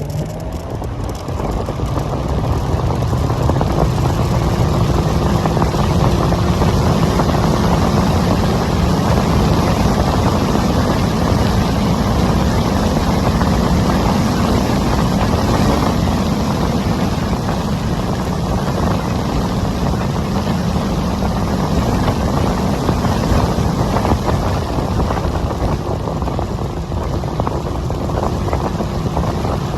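Onyx RCR electric motorbike under way: heavy wind buffeting on the microphone over the road noise, with the motor's faint steady whine showing through at times. A rising whine right at the start as it pulls away.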